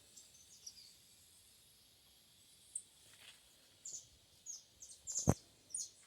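Birds chirping in short high notes, sparse at first and more frequent in the second half, over faint outdoor background noise. One sharp click about five seconds in.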